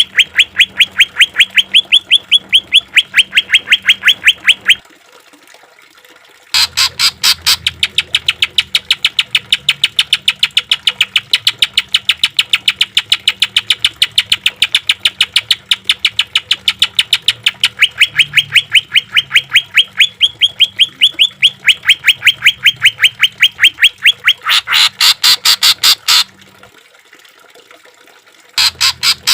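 Cucak ijo (green leafbird) singing long rapid trains of sharp, evenly repeated notes, about eight a second, broken by two pauses of a couple of seconds. Near the end comes a louder, harsher run of notes.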